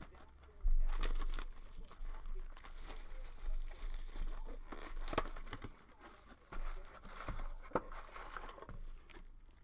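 Plastic wrapping on sealed boxes of trading cards being torn open and crinkled by hand, with a few sharp snaps of the plastic.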